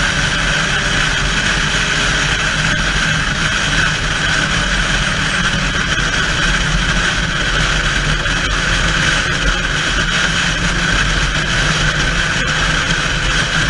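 Steady, loud vehicle running noise: an engine's low rumble under a constant rush, holding the same pitch without revving.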